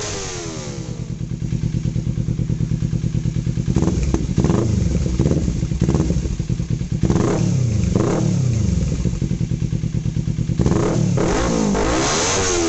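Kawasaki Ninja 300's parallel-twin engine through an Akrapovic slip-on exhaust. It drops back to a pulsing idle, then is revved in a series of quick throttle blips, with more revs near the end.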